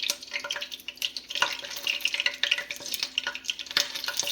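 Hot cooking oil crackling and popping in a pot, seasoned with scallion, in a dense run of irregular small pops.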